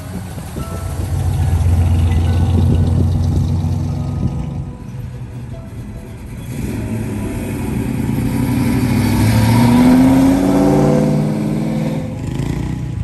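Hot rod engine running low and steady as the car drives past, then a second car's engine accelerating with a rising pitch, loudest about ten seconds in.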